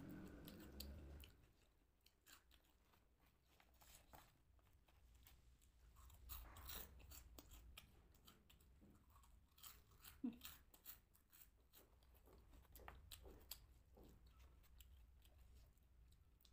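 Close-up chewing and crunching of crunchy snacks, with many small irregular crisp crackles; a little louder about six seconds in and again about ten seconds in.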